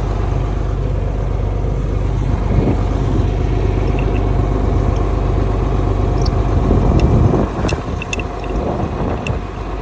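An engine idling steadily, with a few small clicks and knocks near the end.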